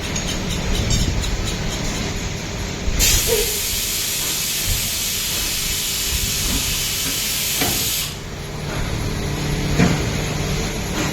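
CNC vertical machining centre running with a steady hum. About three seconds in a loud hiss starts, lasts about five seconds and cuts off suddenly.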